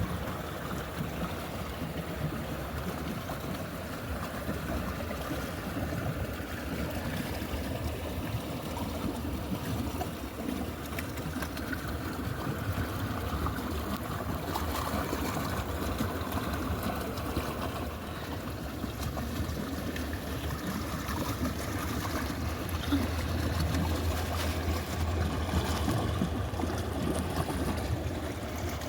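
Running water flowing and trickling steadily, with a low rumble that swells for a few seconds past the middle.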